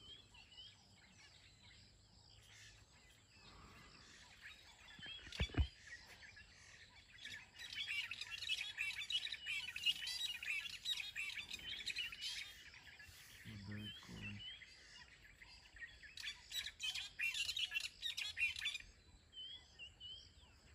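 Small birds chirping in the bush, sparse at first and dense, overlapping chirps from about a third of the way in until near the end. A single low thump about five seconds in.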